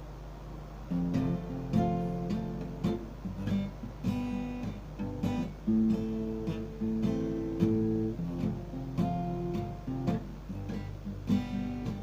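Yamaha F310 steel-string acoustic guitar strummed in a rhythmic chord pattern, with each stroke ringing into the next: the song's instrumental introduction.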